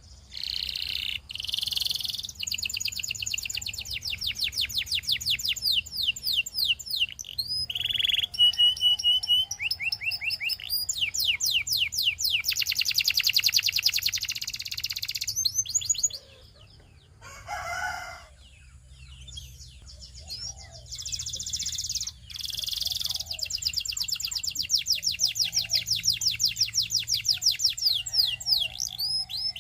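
Canary singing in long, fast trills: rapid strings of repeated high notes that change from one tour to the next. The song breaks off about halfway through for a few seconds, with one short lower call, then starts again.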